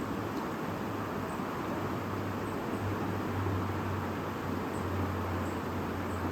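A shallow river or stream murmuring steadily, with a low rumble underneath.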